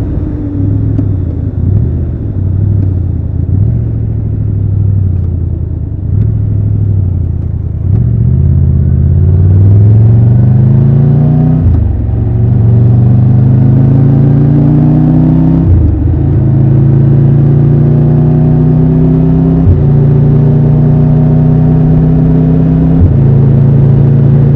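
Triumph Tiger 1200 three-cylinder motorcycle engine running at low, uneven revs, then pulling up through the gears. The pitch rises, drops at an upshift about 12 seconds in, rises again, and drops at another shift about 16 seconds in. After that the bike cruises at a steady engine note, with two brief dips near the end.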